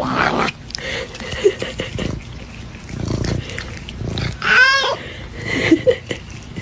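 An animal's vocal call: one short, strong note that wavers in pitch about two-thirds of the way in, with a few weaker notes and scattered low noises around it.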